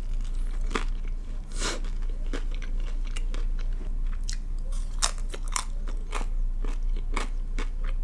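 A person biting and chewing crunchy food close to the microphone, with sharp, irregular crunches a few times a second.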